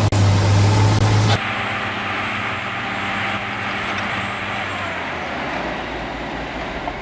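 Heavy construction machinery engines running. A loud, low-pitched engine hum gives way abruptly about a second and a half in to a quieter engine running under a hiss of noise.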